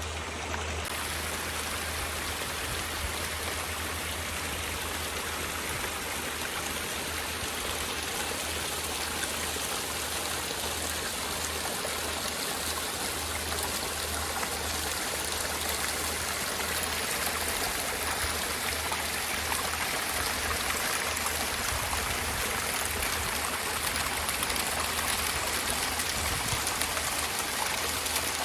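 Garden pond waterfall running: a steady rush of water spilling over river rock, growing slightly louder over the length.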